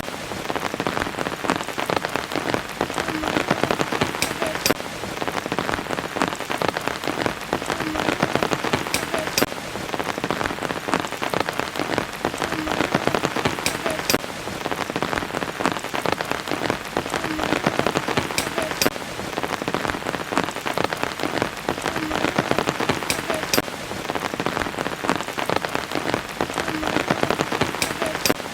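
Steady rain falling, a dense patter with individual drops now and then standing out as sharp taps.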